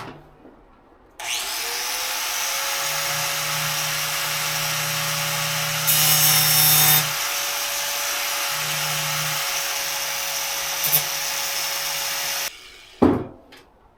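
An electric power tool spins up about a second in and runs steadily for about eleven seconds, cutting the steel stove pipe to length. There is a harsher stretch about halfway through, and it stops abruptly near the end.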